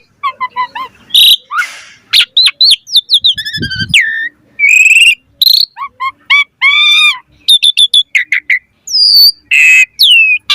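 Asian pied starling (jalak suren) singing a fast, varied song: whistled notes sliding up and down, harsh buzzy calls and short clicking chirps following one another with hardly a break.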